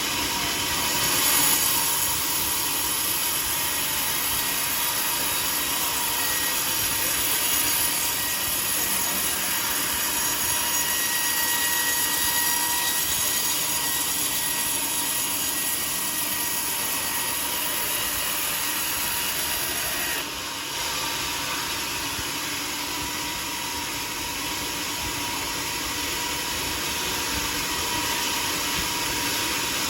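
Sawmill running steadily: a dense mechanical noise with a constant high whine, dipping briefly about two-thirds through.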